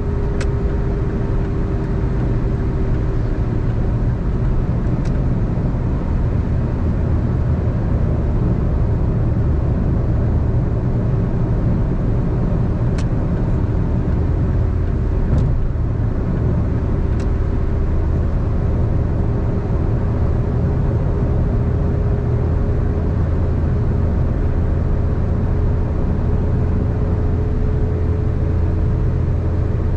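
Car driving at steady highway speed: a continuous rumble of road and engine noise with a steady hum, and a few faint ticks.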